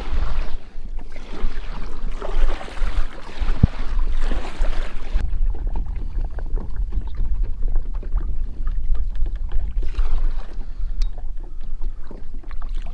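Wind buffeting the microphone in a steady low rumble, over water splashing around a kayak for about the first five seconds. There is a single sharp knock a few seconds in.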